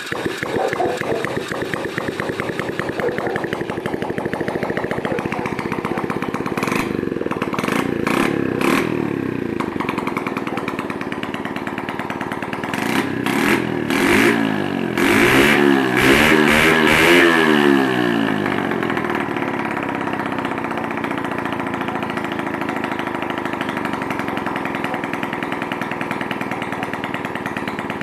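72cc motorcycle engine, a 50cc enduro engine bored out, running on its first start. It is blipped in a few short revs, then revved up and down several times, and settles to a steady idle.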